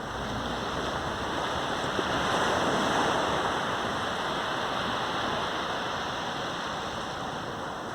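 Sea waves breaking and washing up on a sandy beach: a steady rush of surf that swells about two to three seconds in and slowly fades back.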